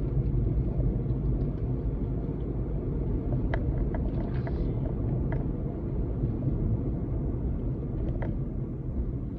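Steady low road and engine rumble of a car being driven, heard from inside the cabin, with a few faint clicks.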